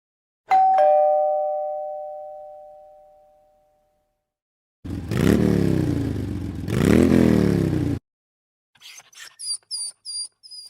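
A two-tone ding-dong doorbell chime that rings and slowly fades. It is followed by a motor vehicle engine revving up and down twice, cut off abruptly, and then a run of short, very high chirps near the end.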